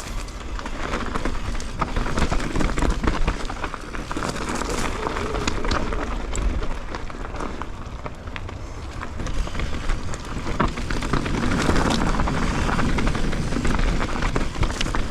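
Specialized Levo e-mountain bike descending a rocky trail: tyres crunching and rattling over rocks, with constant clicks and knocks from the bike, and wind rumbling on the helmet or handlebar camera.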